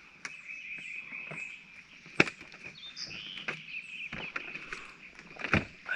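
Steady insect chorus, one unbroken high buzzing tone, with short bird chirps over it and several sharp clicks and knocks scattered through.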